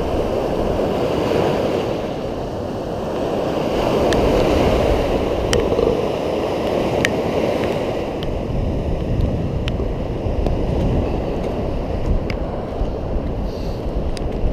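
Steady rushing wind noise on an action-camera microphone with a low rumble underneath, and a handful of sharp ticks scattered through it.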